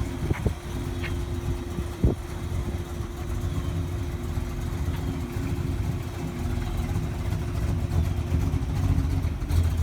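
1948 Mercury coupe's engine idling with a lumpy rumble from a mild cam, the mixture running a little rich in the owner's view. A sharp knock about two seconds in.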